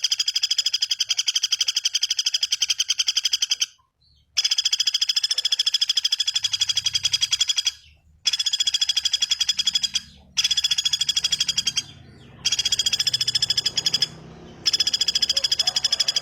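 Recorded bird call: a fast, even trill of rapid repeated notes, high-pitched. It comes in six runs of about two to three and a half seconds, separated by short pauses.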